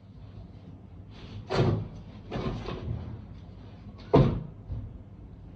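Clunks and handling noises from a new LG microwave oven being taken apart by hand, with two sharper knocks, one about a second and a half in and one about four seconds in.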